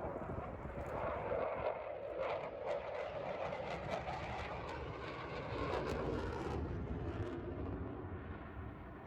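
Steady mechanical hum with scattered small clicks and taps.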